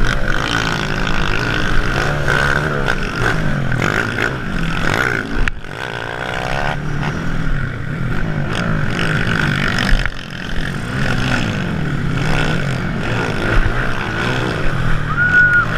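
Several motocross motorcycles racing, their engines revving up and down over and over, one pitch overlapping another as the bikes accelerate and back off.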